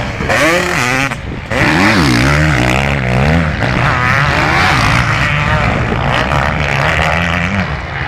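Motocross bike engines revving hard, their pitch rising and falling again and again as the riders work the throttle and shift. Several bikes overlap.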